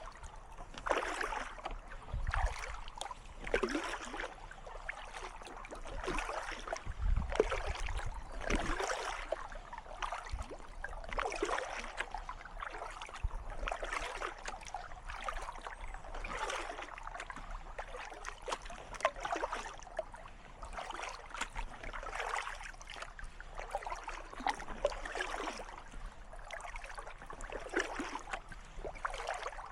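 Kayak paddle strokes dipping and splashing in calm water, a stroke about every second and a half, with a brief low thump about seven seconds in.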